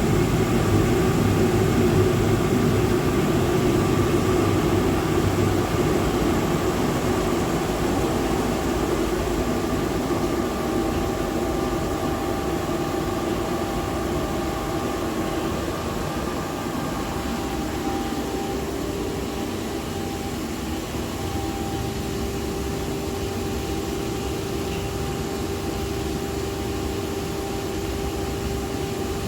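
Boiler burner and its combustion fan running with a steady roar as the burner is turned down from high fire to low fire. The sound eases off over the first twenty seconds or so, then holds steady with a hum.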